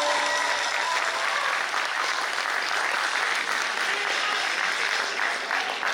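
Audience applauding in an auditorium as a musical performance ends, dense steady clapping with some cheering.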